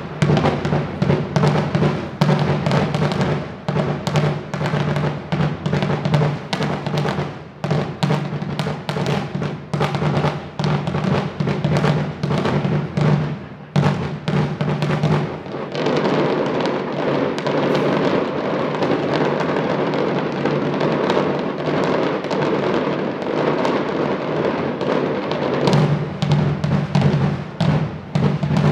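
Daytime aerial fireworks going off overhead: a rapid, irregular string of sharp bangs and crackles, several a second, thickening into a continuous crackle in the middle. A steady low hum lies underneath.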